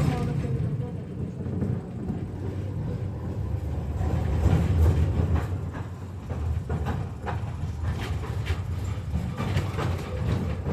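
KTM-5M3 tram running along the track: a steady low rumble with scattered clicks and rattles from the wheels and car body, swelling briefly about halfway through.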